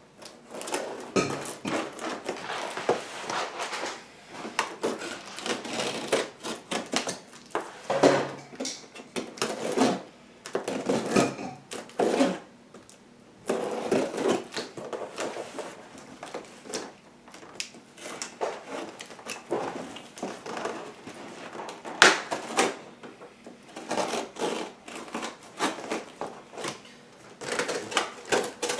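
Packaging being handled during an unboxing: cardboard and plastic rustling, with irregular clicks and knocks.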